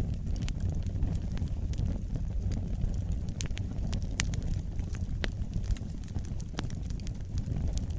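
Fire burning in a fireplace: a steady low rumble of flames with frequent sharp crackles and pops, a few louder snaps in the middle.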